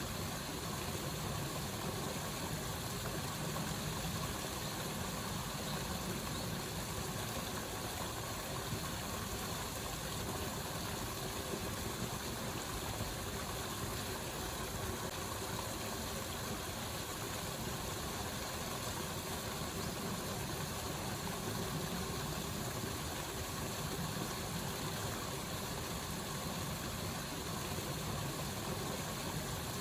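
Steady, unbroken rush of flowing water, an even hiss with no breaks or changes.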